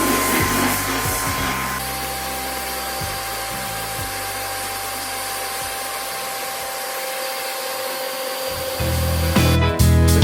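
Floor sanding machine running with a steady motor whine that drops in pitch about two seconds in, under background music; louder guitar music comes in near the end.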